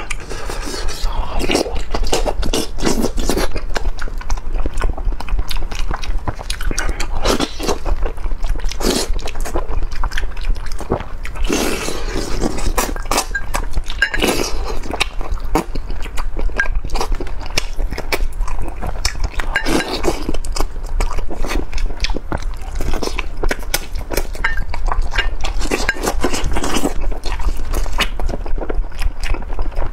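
Close-miked eating of a braised chicken head in sauce: biting, wet chewing and smacking with irregular crunching clicks throughout.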